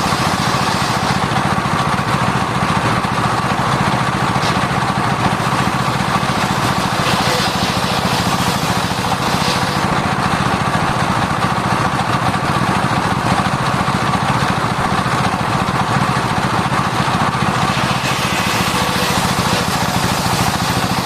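Circular sawmill saw running steadily, a constant machine hum with a held higher tone that does not change.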